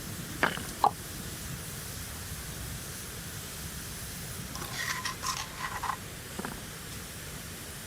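A few light taps, then a quick cluster of short ringing clinks about five seconds in, like small hard objects such as glass or metal knocking together. These sit over a steady hiss.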